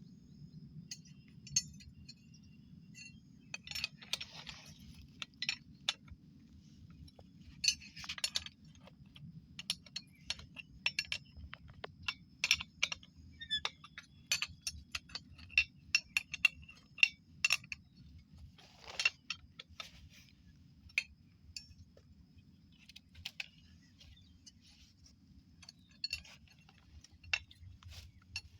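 Irregular metallic clinking, tapping and scraping of tools and metal fittings being handled while a water pump set is assembled, over a steady low rumble.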